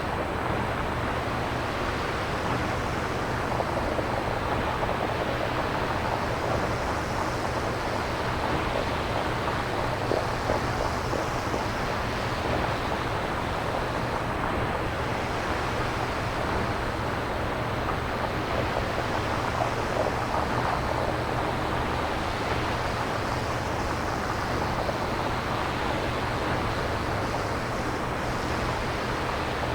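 Synthesized nature-ambience noise, a steady wind- or surf-like hiss whose upper range swells and ebbs every few seconds, over a steady low rumble.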